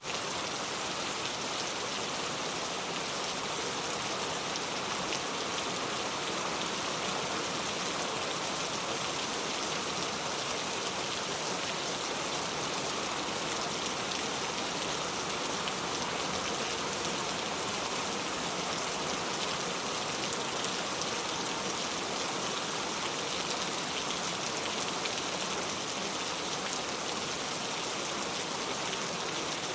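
Steady rain falling, an even hiss of drops pattering on surfaces.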